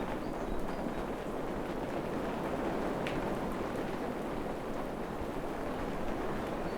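Steady forest rain, a dense even patter of drops, with one sharper tick about three seconds in.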